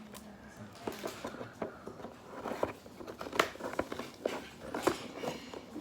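Scissors snipping at toy packaging: a run of irregular sharp snips and clicks, the loudest about three and a half and five seconds in.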